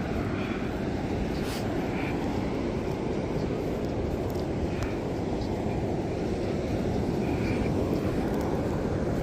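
Steady low rushing noise of wind buffeting the microphone at the beach.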